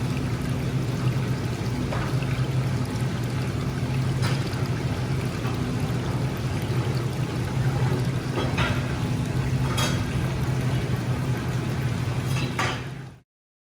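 Steady watery sound, like pouring or bubbling water, over a low steady hum, with a few faint clicks; it cuts off abruptly near the end.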